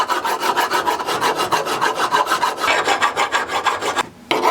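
Maple hammer handle being rubbed down by hand in quick back-and-forth strokes, about five a second, with a brief pause near the end.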